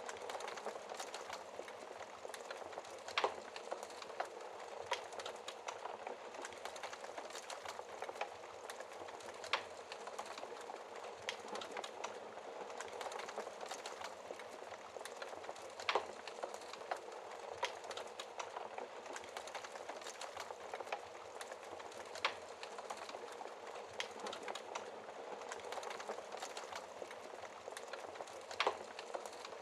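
Wood fire crackling steadily, with frequent small ticks and a few sharper pops from the burning logs, over an even hiss of rain.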